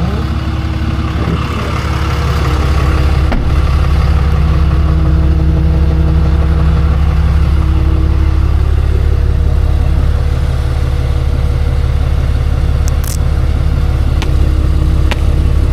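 Tow truck engine and road noise heard from inside the cab while driving: a steady low drone that gets louder about two and a half seconds in and then holds, with a few faint clicks.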